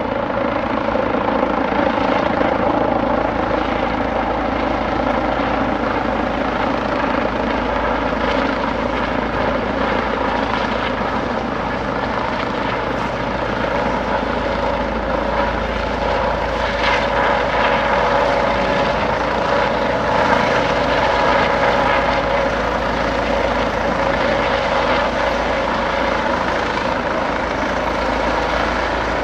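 Air ambulance helicopter running steadily, its turbine engine and rotor blades sounding at a constant level.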